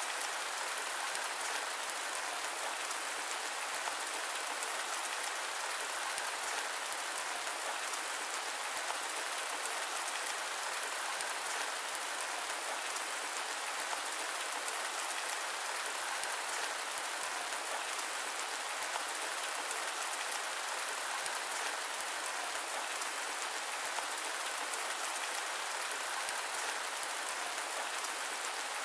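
Steady rain falling: an even hiss with many fine drop ticks and almost no low rumble. There is no thunder.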